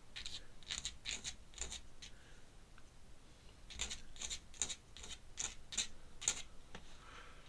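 Ink pen scratching on sketchbook paper in short quick strokes: a group of about five, a pause of a couple of seconds, then a run of about eight more.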